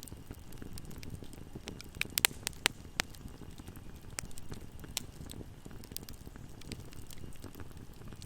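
Fire burning in a fireplace: a steady low rumble of flames with scattered sharp crackles, and a quick cluster of louder pops about two to three seconds in.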